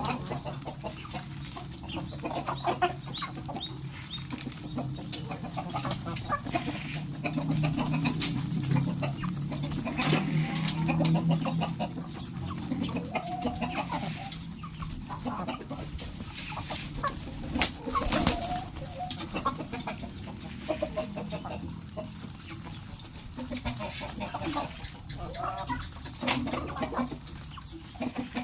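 Domestic chickens clucking as they feed, mixed with many short, high, falling chirps and a few sharp taps.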